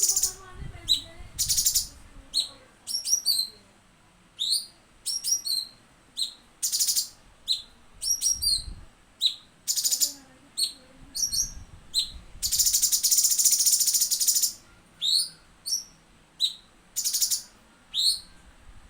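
Cucak cungkok bird singing in short, sharp, high-pitched 'tembakan' (shot) notes: quick chirps and whistled flicks a fraction of a second each, separated by short pauses, with one longer continuous trill of about two seconds past the middle.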